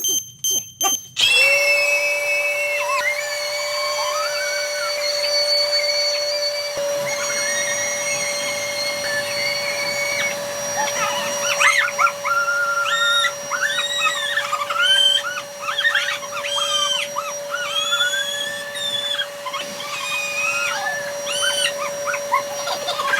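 An electric air blower runs with a steady whine as a giant rubber balloon is inflated. Over it come many high squeaky sliding tones, more of them in the second half.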